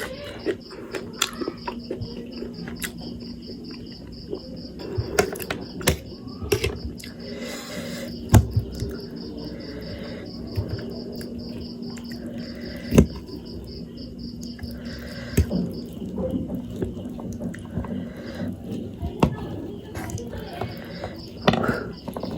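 Close-up eating sounds from a mukbang of spicy instant noodles: chewing and slurping with frequent sharp clicks and knocks of the utensils and bowl, and a couple of louder knocks, one about 8 seconds in and one about 13 seconds in. A steady high pulsing chirp and a low hum run underneath.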